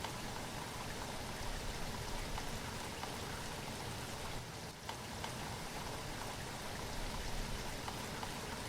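Steady rainfall, a continuous hiss with many individual drops pattering.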